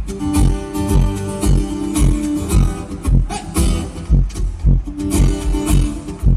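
Live concert music over a PA: amplified acoustic guitar playing with a steady, bass-heavy beat of about two thumps a second.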